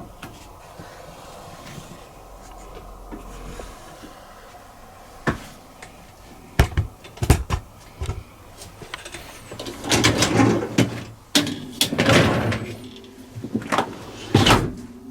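Dishwasher racks and cutlery drawer being handled: a few sharp clicks, then rattling, sliding runs of the racks on their rails and a loud knock near the end.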